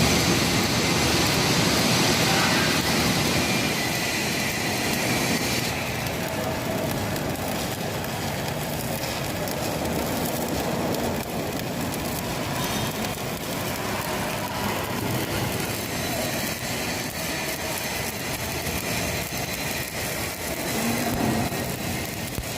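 Electric arc welding: the arc crackles and hisses without a break, a little louder for the first few seconds.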